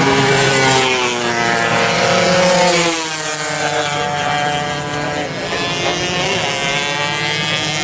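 Several high-revving two-stroke 120cc racing motorcycles running together, their engine notes rising and falling at different pitches as they race past; loudest in the first three seconds, then slightly fainter.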